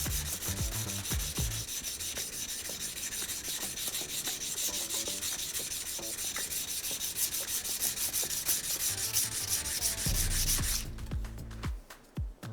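Steel knife blade of a thin honyaki fugu-hiki knife scraped rapidly back and forth on a coarse 200-grit diamond whetstone, several even strokes a second. The strokes stop abruptly near the end.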